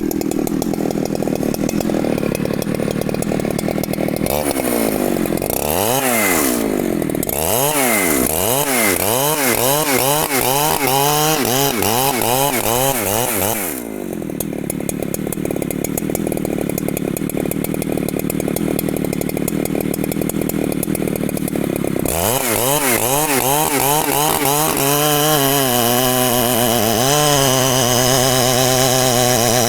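Large two-stroke Husqvarna chainsaw running hard. For long stretches its engine pitch rises and falls about once a second, and in between it holds a steady pitch.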